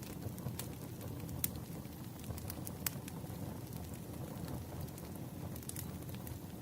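Wood fire burning: a steady low rumble with sharp crackles and pops scattered irregularly through it.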